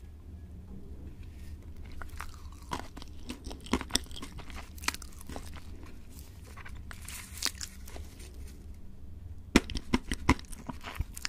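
Close-miked mouth sounds of biting and chewing a sugar-coated gummy candy: scattered wet clicks and smacks, starting a couple of seconds in and coming sharpest and loudest near the end.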